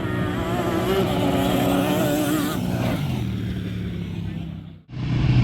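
ATV (quad) engines running hard during a drag race; the engine note wavers and then drops in pitch about three seconds in. The sound cuts out abruptly near the end, and an engine is then heard running again.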